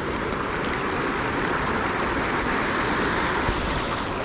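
Steady rushing of water in the rain, an even noise with no break, with a few faint ticks like single drops.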